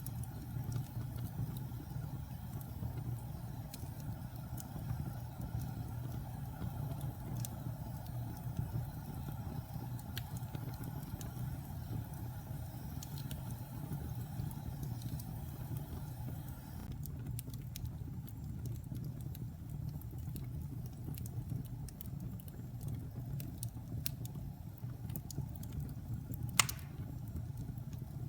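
Wood fire burning in a fireplace: a steady low rumble of the flames with scattered small crackles, and one sharp loud pop near the end.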